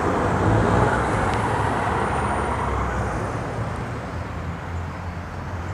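Road traffic: a passing vehicle's rushing noise slowly fades away over a steady low engine hum.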